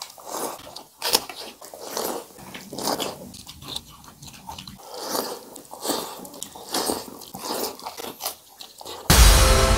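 Close-up chewing and biting of people eating rice and fried vegetables with their hands: irregular wet smacks and clicks. Near the end, louder piano-like music cuts in suddenly.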